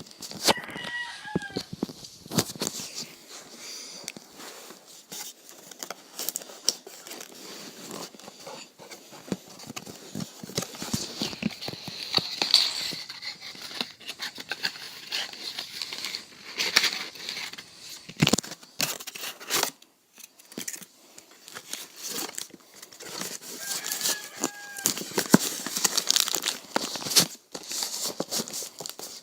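Packaging being handled and torn open: irregular crinkling and crackling of wrapping, with tearing and sharp clicks throughout.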